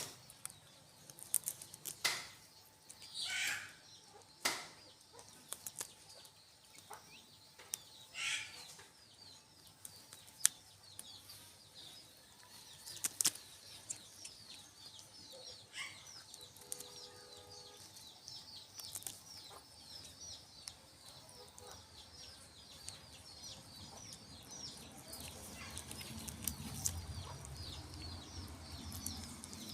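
Birds calling and wings flapping, among scattered sharp knocks, with a rapid high twittering through the middle and later part and a low rumble building near the end.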